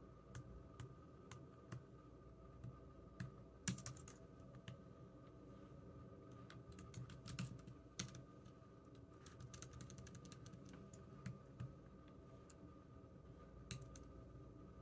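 Computer keyboard typing: quiet, irregular key clicks with a few louder keystrokes scattered through, over a faint steady hum.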